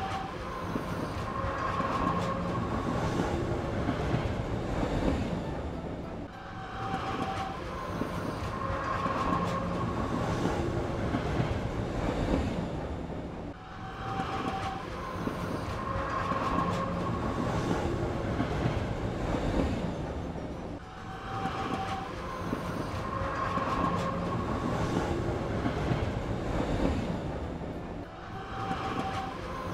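A looped train sound effect: short horn-like tones over a rolling clatter, the same pattern repeating about every seven seconds.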